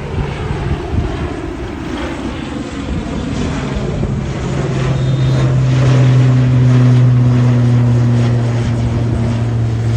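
Airliner engines climbing out just after takeoff: a loud steady noise that swells to a peak about two-thirds of the way in and eases a little after, with a steady low hum setting in about halfway.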